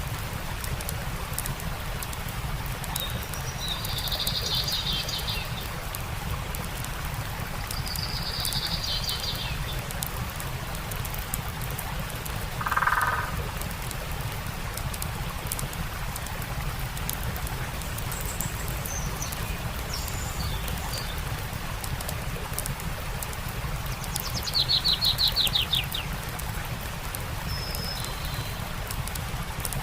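Stream running steadily with a campfire crackling, while songbirds call: a few short high chirps early on, a lower call about midway, and a fast, loud trill of rapid notes near the end.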